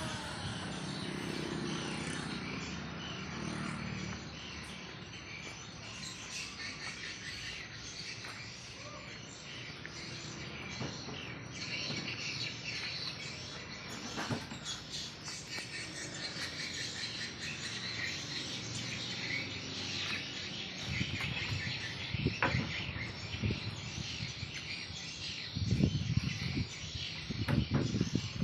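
Birds chirping over a steady background of insects, with a few dull thumps near the end.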